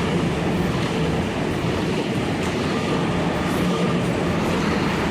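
Waratah electric multiple-unit train passing through the station platform, a steady rumble of wheels and running gear with a faint electric hum.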